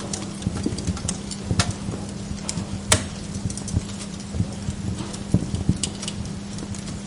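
Wood log fire crackling in a fireplace: irregular small pops and snaps, with one sharp, loud pop about three seconds in, over a steady low hum.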